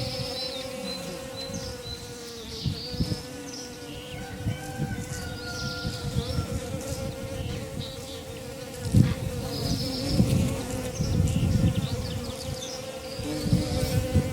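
A flying insect buzzing steadily close by, its drone wavering slightly in pitch, while small birds chirp in short high calls. Low rumbling thumps come in the second half.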